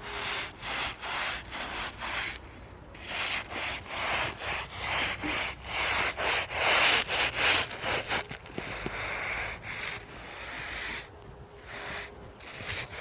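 Stiff broom bristles scrubbing a stone grave surround wet with bleach: quick back-and-forth strokes, about three a second, with a short break and a stretch of steadier scraping partway through.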